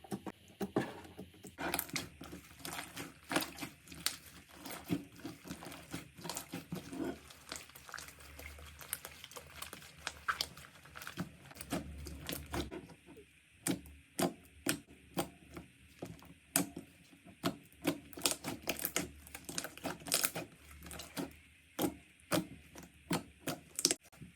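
Slime being squeezed and poked by hand: a steady, irregular stream of sharp, sticky pops and clicks, several a second, with short lulls.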